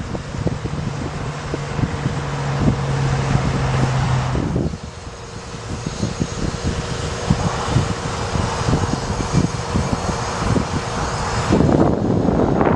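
Bucket truck's engine running steadily with a constant whine, wind buffeting the microphone. A lower hum drops out about four and a half seconds in, and the whine stops near the end.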